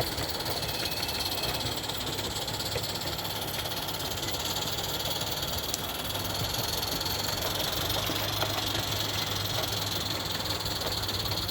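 Roundhouse Lady Anne live-steam model locomotive running with a steady hiss and mechanical chatter.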